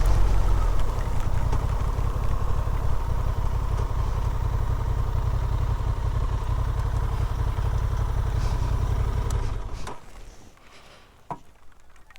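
Motorcycle engine running steadily at low revs, then switched off about ten seconds in; a couple of faint clicks follow in the quiet.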